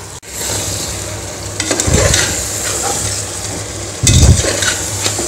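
Chicken leg pieces and ginger-garlic paste sizzling in oil in a pressure cooker pot while a metal spatula stirs and scrapes through them. Two louder knocks come about two seconds in and again about four seconds in.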